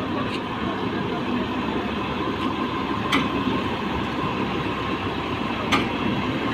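Heavy diesel machinery engine running steadily with a low rumble, with two sharp clicks about halfway through and near the end.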